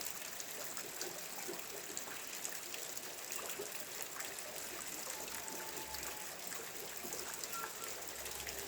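Rain falling steadily, an even hiss with many small drips pattering through it.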